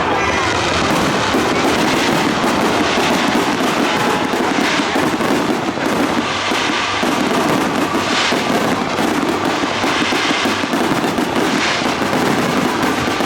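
Fireworks display: a dense, unbroken run of bangs and crackling, with several heavier bursts standing out.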